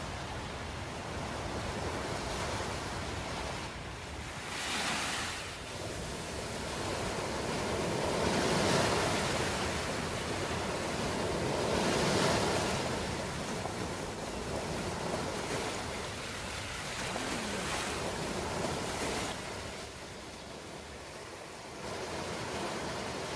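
Ocean waves washing ashore, a steady hiss of surf rising and falling as waves break, with the loudest swells about 5, 9 and 12 seconds in.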